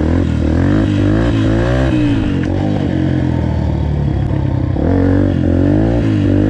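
Dirt bike engine revving, its pitch rising and falling several times with the throttle.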